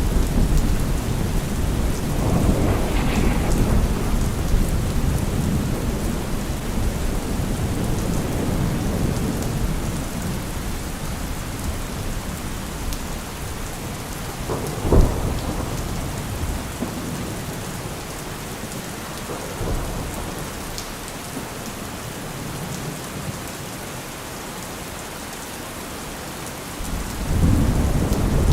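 Heavy rain falling steadily, with deep low rumbles that swell and slowly die away, a sharp crack about halfway through, and the rumbling building again near the end.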